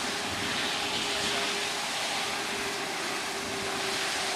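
Floodwater rushing steadily, a constant hiss-like roar of moving water, with a faint steady hum running through most of it from about a second in.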